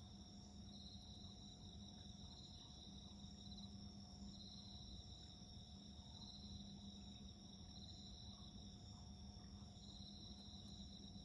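Crickets singing faintly: one steady high trill, with a second call near it that swells and fades every second or two.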